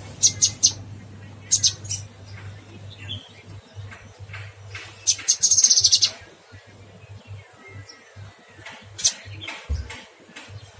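A cucak kinoy songbird singing in loud, high-pitched chirps in short clusters, with a rapid trill of evenly repeated notes about five seconds in lasting about a second, and more chirps near the end.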